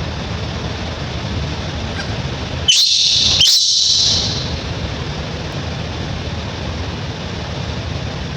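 Baby monkey giving a brief high-pitched shriek in two quick bursts about three seconds in, over a steady low background hum.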